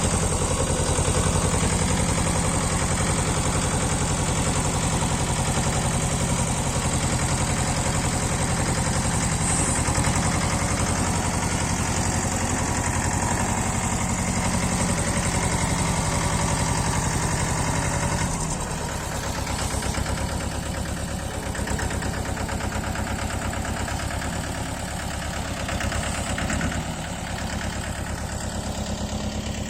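Mahindra Jivo 245 DI mini tractor's two-cylinder diesel engine running steadily, then dropping to a lower, quieter idle about two-thirds of the way through.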